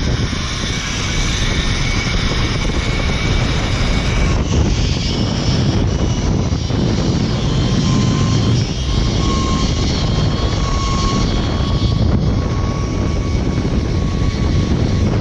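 Zip-line trolley pulleys running fast along a steel cable, with a steady high whine, under heavy wind rushing on the microphone.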